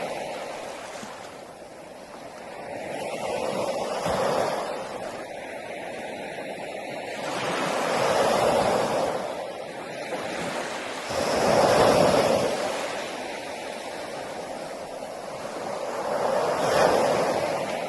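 Ocean waves breaking on a beach, a continuous wash of surf that swells and falls back about every four seconds, with a stronger breaker about twelve seconds in.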